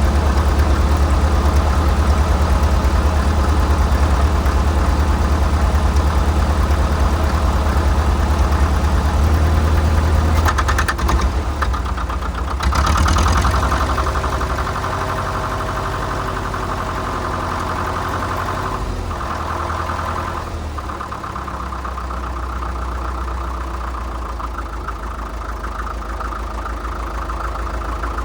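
A 1947 International Harvester TD-9 crawler's gas-start diesel engine running after its first start in years. The sound is strong and steady for the first ten seconds or so, then shifts a little past the middle, dropping to a lower, steadier running note.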